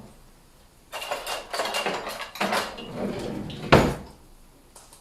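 Kitchen dishes and utensils clattering as they are handled, ending in one sharp knock about four seconds in.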